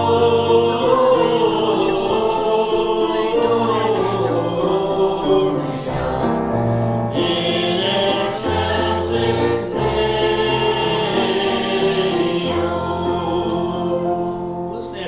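Church congregation singing a hymn together with musical accompaniment, in held chords over steady bass notes, fading out at the very end.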